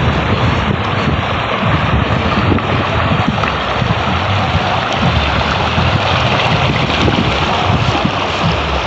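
Tata Nexon SUV wading through a river: a steady rush of churned water, with wind buffeting the microphone in gusty low rumbles.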